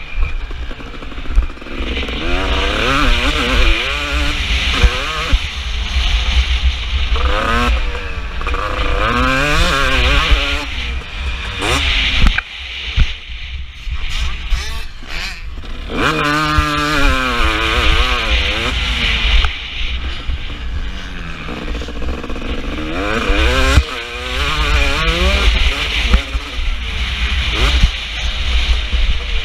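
KTM SX 250 two-stroke single-cylinder motocross engine being ridden hard, its pitch climbing and falling again and again as the throttle is opened and shut through the gears. There are a couple of longer stretches off the throttle in the middle.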